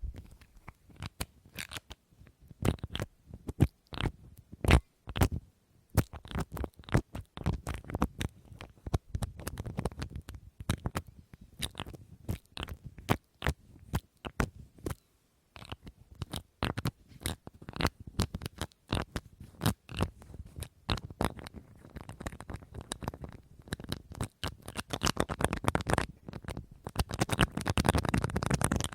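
Fingers tapping quickly and irregularly on a hard object, a long run of sharp clicks with a few louder knocks. Near the end it thickens into fast, dense tapping and scratching.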